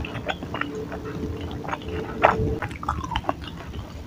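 A person chewing close to the microphone, eating chewy bakso aci (tapioca-flour dumplings), with wet mouth sounds and scattered short smacks and clicks.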